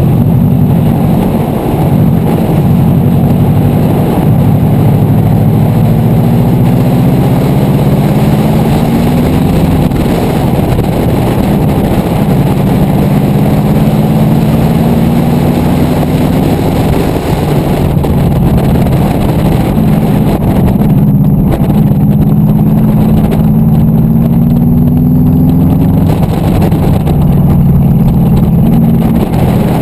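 Subaru Impreza WRX's turbocharged flat-four engine under hard acceleration on a dirt track, its pitch climbing and dropping back at upshifts about three times, over a steady rush of road and wind noise.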